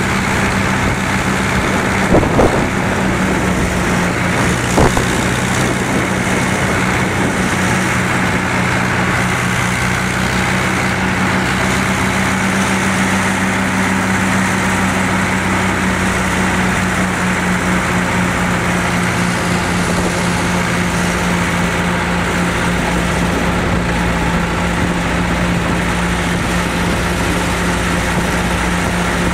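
Someca 750 DT tractor's diesel engine running steadily at an even speed, with two short knocks about two and five seconds in.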